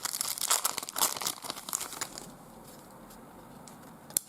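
A trading card pack's wrapper being torn open and crinkled, with a dense crackle for about two seconds. It is followed by quieter handling and a single sharp click near the end.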